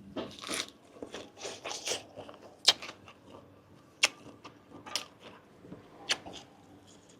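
A person chewing grilled giant octopus tentacle close to the microphone, wet mouth sounds broken by several sharp clicks.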